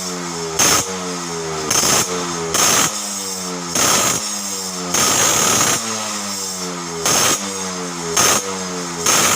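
Yamaha RX-King two-stroke single revved through a Borang exhaust fitted with an Alfa-type baffle insert: about eight sharp throttle blips, each followed by the revs falling back toward idle.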